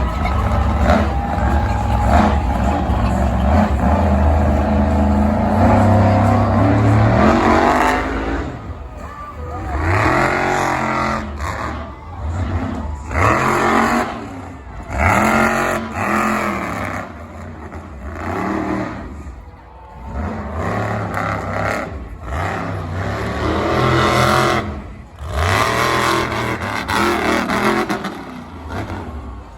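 Big monster truck engine running hard and steady for the first several seconds, then revved again and again, each rev rising and falling in pitch with short lulls between.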